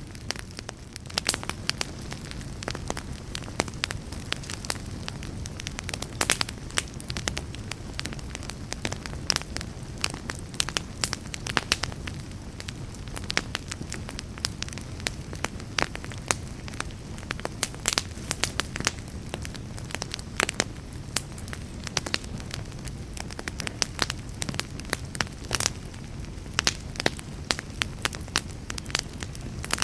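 Wood fire burning: irregular sharp crackles and pops, many a second, over a steady low rumble of flame.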